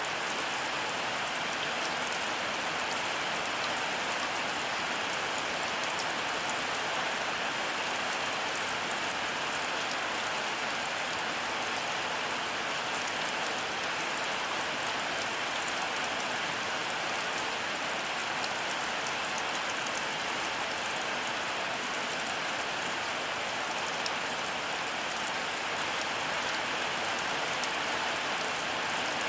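Heavy rain falling steadily, a dense even hiss with fine scattered drop ticks; no thunder in this stretch.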